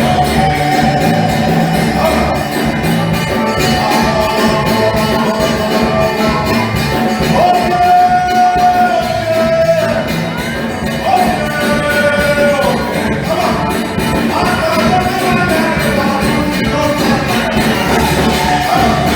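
Live church music: voices singing a melody over instruments, with a steady percussion beat.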